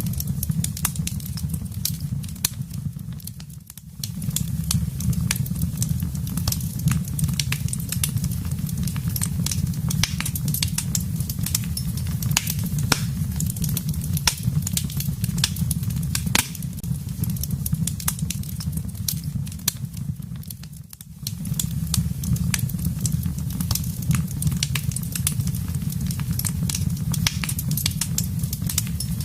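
Wood fire burning in a fireplace: a steady low rumble of flames with many sharp crackles and pops throughout. The sound dips briefly twice, a few seconds in and about two-thirds of the way through.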